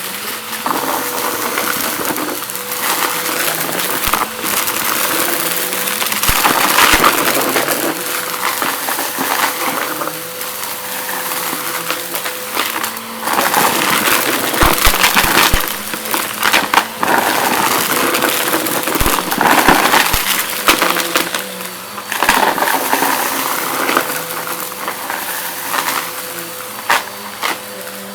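Vacuum cleaner running on a rug with a steady motor whine, sucking up crunchy debris that crackles and rattles up through it. The crackling swells and fades every few seconds.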